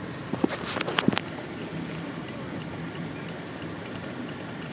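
Car driving, heard from inside the cabin: a steady low road rumble with faint, evenly spaced ticking, and a short cluster of sharp clicks and knocks with a brief hiss about a second in.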